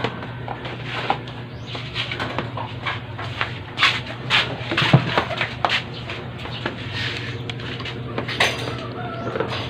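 A spark plug's electrode being worked to a point by hand, heard as short, irregular scraping and tapping strokes. A steady low hum runs underneath.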